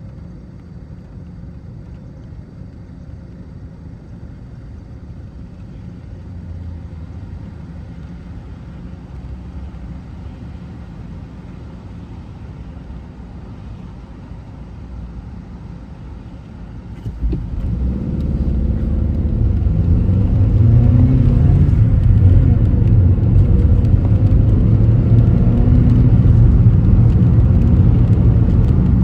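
Car driving, with low engine and road rumble that suddenly grows much louder about seventeen seconds in and stays loud.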